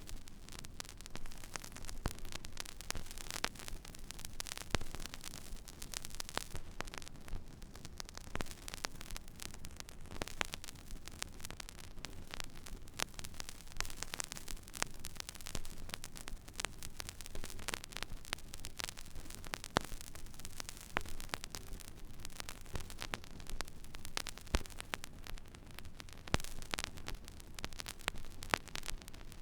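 Stylus running in the empty groove of a vinyl record: steady surface hiss with scattered crackles and pops over a low hum.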